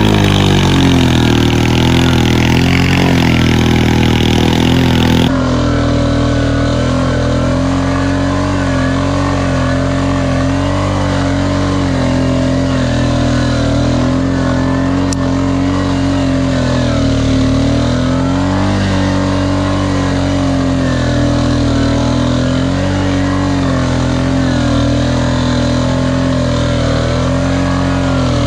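Off-road four-wheeler engine running hard, its pitch rising and falling with the throttle. About five seconds in, the sound changes abruptly and loses its high end.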